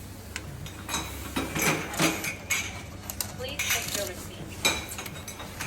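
Dishes and cutlery clinking: a run of sharp clinks, several ringing briefly, over a steady low hum.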